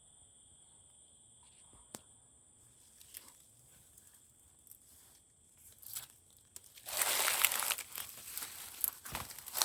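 A steady, high insect drone stops about two and a half seconds in. Scattered clicks follow, then loud crackling, crinkling rustling from about seven seconds in.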